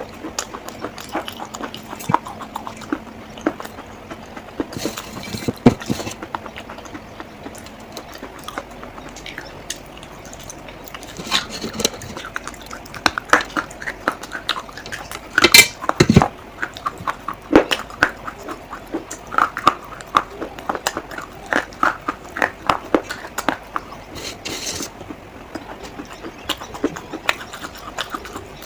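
Dry clay being cracked and crushed: irregular sharp cracks and crunching clicks, some in quick clusters, with the loudest crack about halfway through.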